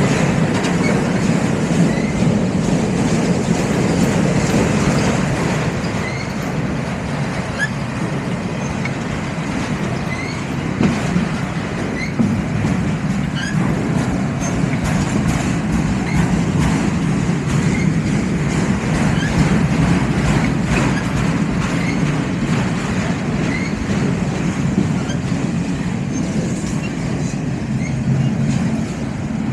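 Freight train rolling past, a steady loud rumble of cars on the rails, with short high squeaks now and then.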